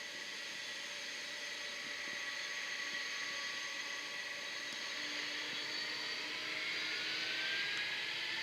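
Jet aircraft engines running with a steady high whine over a rushing hiss. Near the end a tone rises in pitch as the sound slowly grows louder.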